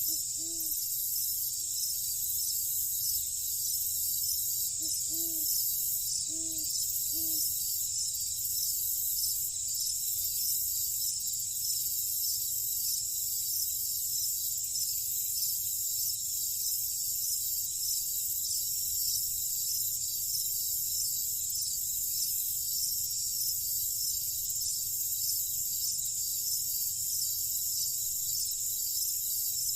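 Dense, high-pitched chorus of night insects such as crickets, trilling steadily in fast pulses. A few short, low calls come in the first several seconds, about five in all.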